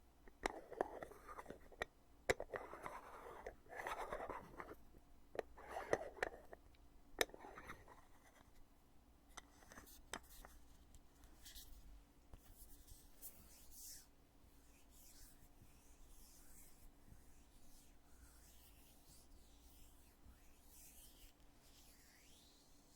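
A foundation container's lid being opened and closed by hand: a run of sharp clicks with rubbing and scraping over the first eight seconds, then only faint scratching.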